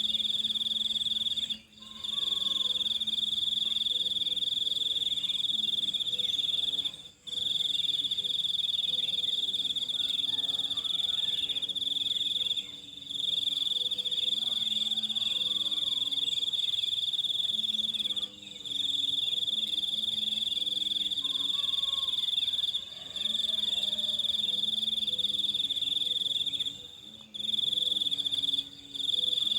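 Cricket-like insects trilling: one loud high note held at a steady pitch, breaking off briefly every few seconds, over a fainter, lower pulsing chorus.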